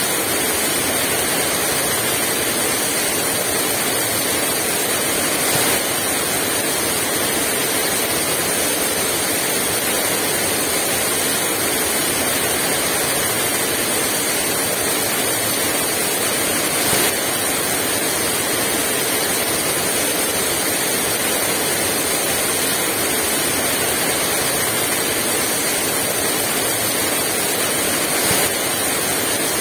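Heavy rain falling steadily as an even, dense hiss, with no strong wind. Three brief louder taps stand out, one about six seconds in, one near the middle and one near the end.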